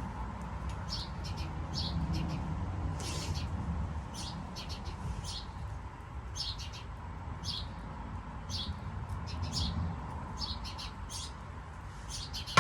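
A small bird chirping over and over in short, high chirps, about one or two a second, over a steady low rumble.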